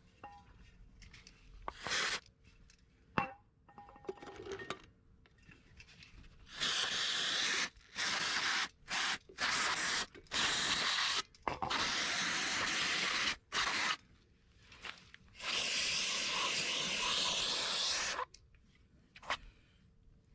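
A few light clicks and scrapes, then repeated bursts of hissing spray, each lasting from a fraction of a second to a few seconds, starting about six seconds in and stopping a couple of seconds before the end.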